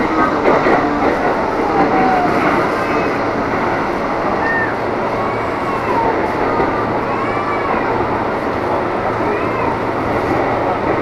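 KRL electric commuter train heard from inside the carriage as it runs alongside a station platform: a steady rumble of wheels on track under a low motor hum, with scattered short high squeaks.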